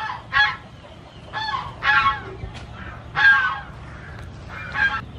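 A bird's short, loud honking calls, about six of them at uneven intervals.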